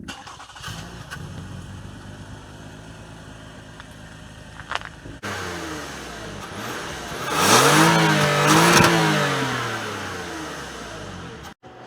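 Toyota Camry XSE's 3.5-litre V6 running through an aftermarket Magnaflow stainless cat-back exhaust. It idles steadily, then after a cut it is revved, rising and falling twice.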